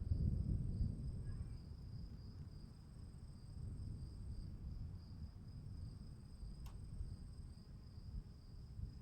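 Crickets chirping in a steady high trill, with a second, fainter and higher trill above it, over a low rumble that is loudest in the first second. A faint single click comes about two-thirds of the way through.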